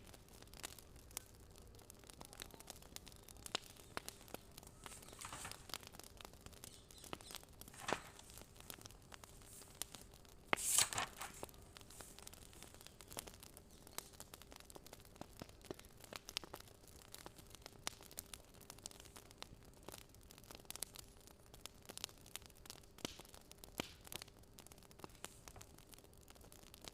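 Faint fire crackling: scattered, irregular small pops and snaps, with a louder rustling hiss about eleven seconds in.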